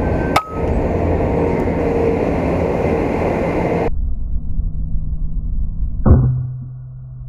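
Outdoor background noise with a sharp click about half a second in, then a sudden change to a duller, quieter background. About six seconds in comes a sharp air rifle shot, followed by a low, steady hum that fades out.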